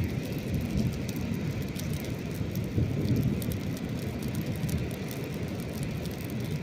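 Ocean surf washing in as a steady low rumble, with a wood campfire crackling over it in small scattered pops and snaps.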